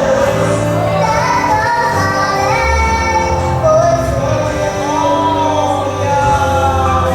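A song: a high solo voice singing a gliding melody over sustained low instrumental notes.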